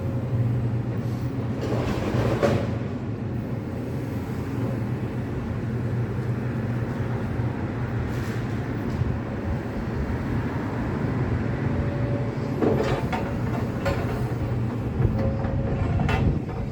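Heavy tracked excavator's diesel engine running steadily, with a few short knocks and clatters of demolition work about two seconds in and again near the end.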